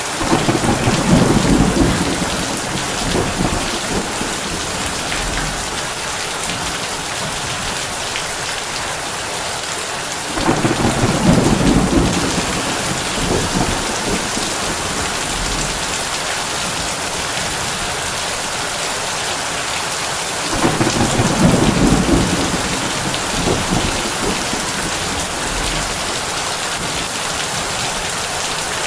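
Heavy rain falling on a tin roof in a steady hiss, with low thunder rumbling three times, about ten seconds apart, each roll lasting two to three seconds.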